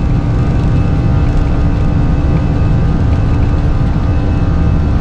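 Steady cockpit noise of an Airbus A320 in flight: a constant rushing of airflow and engine noise, heaviest in the low end, with a steady hum of several fixed tones over it.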